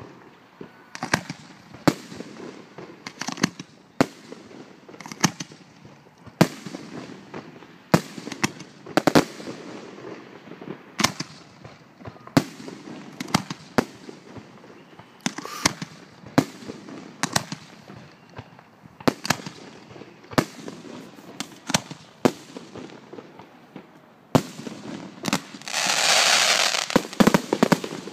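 Aerial fireworks display: shells bursting in a steady series of sharp bangs, roughly one a second, some close together, over a low rumble. A loud hissing rush lasts about two seconds near the end.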